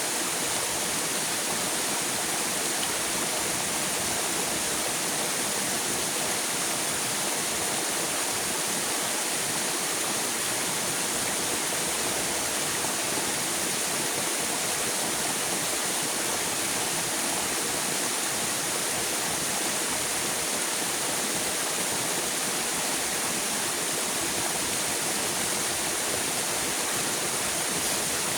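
River water rushing and splashing in a steady, unbroken hiss.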